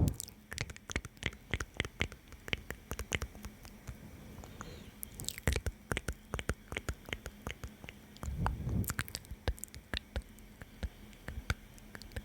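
ASMR mouth sounds close to the microphone: irregular wet clicks and smacks of the lips and tongue, with a couple of soft breathy swells in between.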